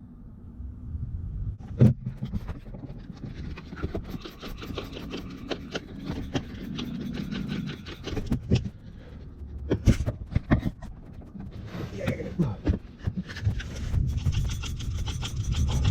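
Scraping and rubbing handling noises with scattered knocks and clicks, ending in a run of rapid ticks near the end.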